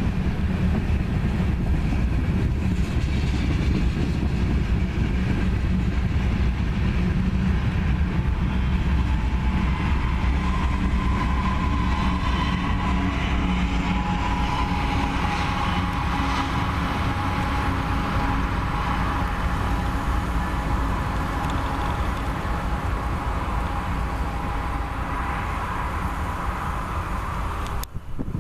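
Norfolk Southern freight train rolling past with a steady heavy rumble of wheels on rail. A thin steady whine rides over it from about ten seconds in until near the end. The sound drops off abruptly just before the end.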